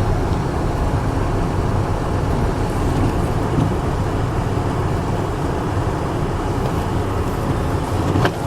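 Steady low engine and road noise of a car being driven, with a brief click near the end.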